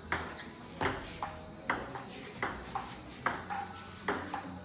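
A metal utensil clinking repeatedly against a steel pot or dish, roughly two or three irregular strikes a second, each ringing briefly.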